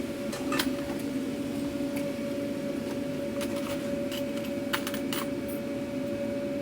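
Scattered light clicks and taps, keys being pressed as a payment is rung up on a point-of-sale terminal. Underneath runs a steady hum of food-truck equipment.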